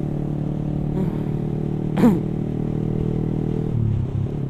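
Yamaha R15 V3's single-cylinder engine through an aftermarket racing exhaust, running steadily at cruising speed. Its note drops lower near the end. A brief rising-and-falling chirp cuts in about two seconds in.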